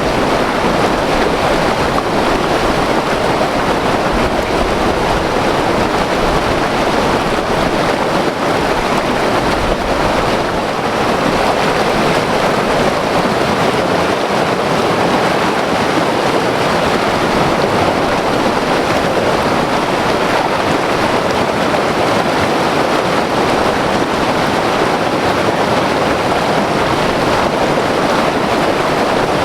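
White-water mountain river rushing over rocks, a steady loud roar of turbulent water.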